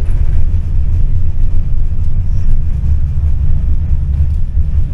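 Tram running along its rails, a steady low rumble of wheels and running gear heard on board.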